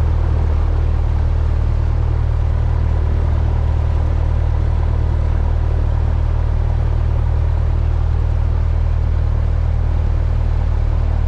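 Cessna 172's piston engine and propeller droning steadily at constant power, a loud, even low-pitched hum with no change in pitch.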